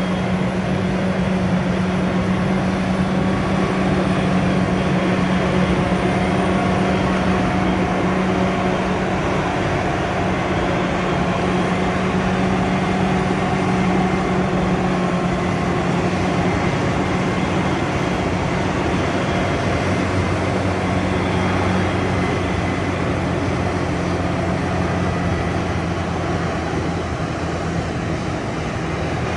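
Diesel engine of a large farm tractor or harvester running steadily under load, a constant drone; a lower engine hum joins about two-thirds of the way through.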